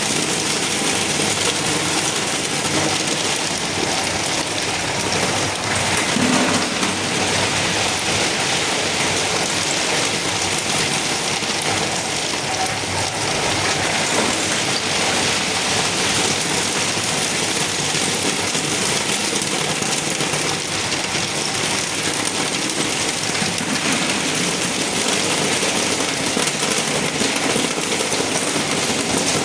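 Refrigeration production machinery running with only one of its two compressors on, making a loud, steady hiss and rattle that does not change.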